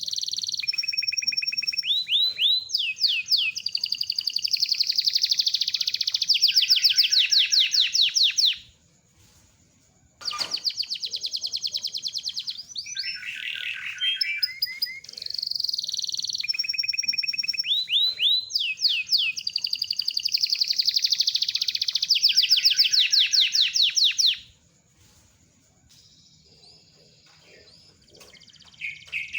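Domestic canary singing long, rolling phrases of fast high trills and rattles. The song breaks off briefly about nine seconds in, then runs on for another long phrase before a pause near the end.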